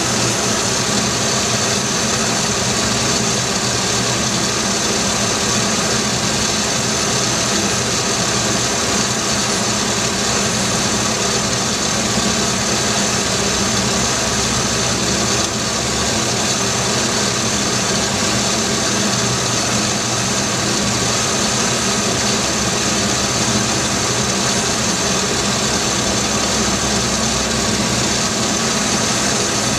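GM 3.1-litre V6 engine idling steadily, heard up close in the engine bay.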